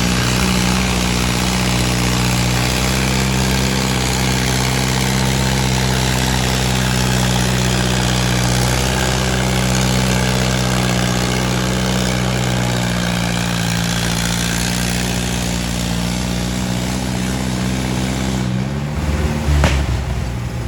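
Antique farm tractor engine running steadily, its pitch sagging a little in the second half. Near the end the steady note breaks off and changes, with a short loud knock.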